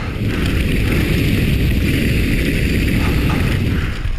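Wind rushing over the microphone of a downhill mountain bike rider descending at speed, with steady rumbling tyre and bike noise underneath.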